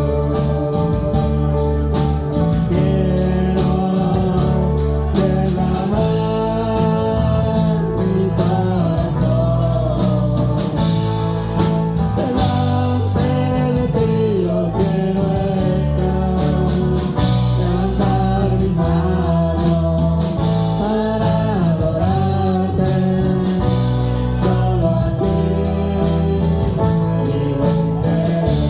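Live worship music: a band with bass, guitar and a steady rhythm playing under a sung melody.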